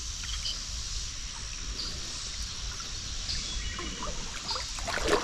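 Creek water trickling and running steadily, with a few faint small clicks near the end.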